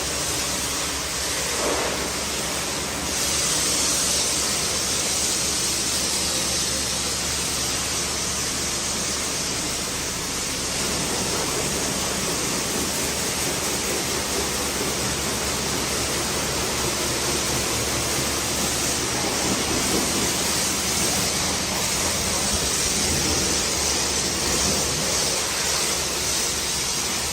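Pressure washer spraying water or snow foam onto a car, a steady hiss of spray with a faint low hum underneath.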